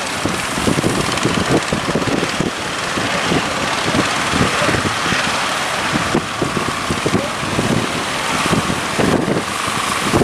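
Wind buffeting the microphone in irregular gusts over the steady rush of sea and surf.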